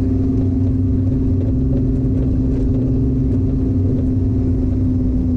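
Engine of a 700–800 horsepower BMW estate drift car heard from inside the cabin, running at steady revs: a constant hum over a low rumble.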